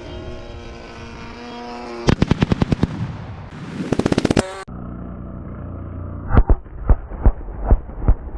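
Simulated gunfire from ground pyrotechnics: two quick rattling strings of sharp cracks, about ten a second, over a steady drone. Then a run of separate heavy booms, two or three a second, as charges go off one after another.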